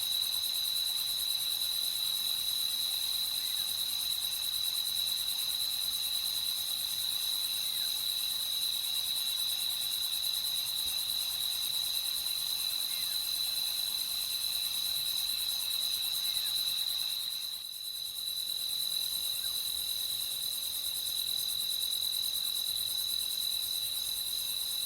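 Crickets trilling in a steady nighttime chorus: one high continuous trill with fainter pulsing trills above it. The sound dips briefly about three-quarters of the way through, then carries on.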